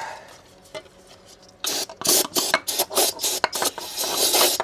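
Irregular rasping and rubbing strokes with short clicks, starting about a second and a half in, as an oily spot in the engine bay is cleaned out.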